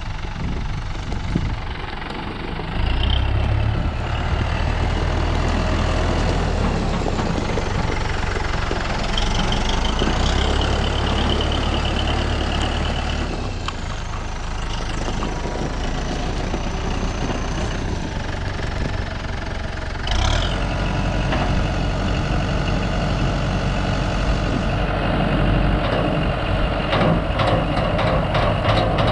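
A farm vehicle's engine running, its low hum stepping up in level a few seconds in and again about two-thirds through, with a run of rattling clicks near the end.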